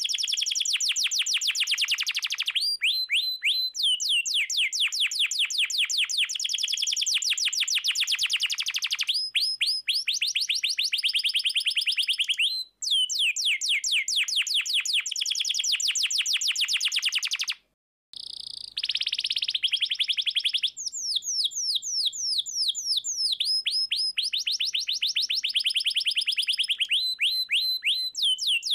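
Domestic canary singing in continuous rapid trills, runs of short downward-sweeping notes, many per second. The trill changes to a new pattern every few seconds, with a brief break about eighteen seconds in.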